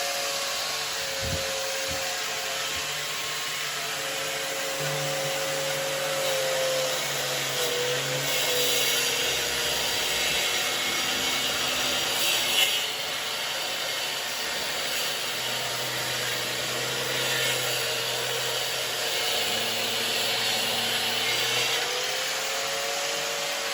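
Power drill with a 72 mm diamond core bit boring a socket-box hole through gypsum-plastered foam block, its motor whining steadily under load over a grinding hiss, with a dust-extraction vacuum running alongside.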